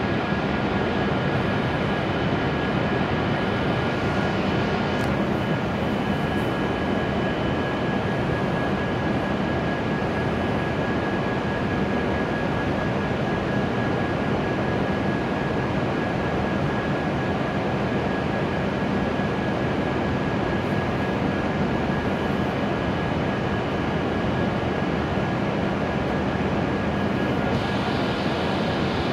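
E7 series shinkansen standing at the platform with its doors shut, its onboard equipment running as a steady whirring drone with a few faint constant whines. A higher whine fades out about a quarter of the way through.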